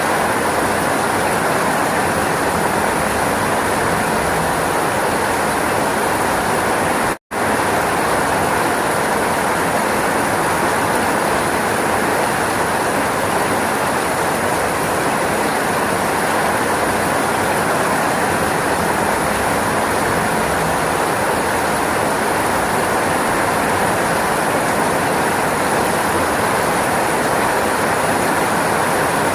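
Steady, heavy rainfall, an even hiss with no distinct drops standing out. The sound cuts out completely for an instant about seven seconds in, then resumes unchanged.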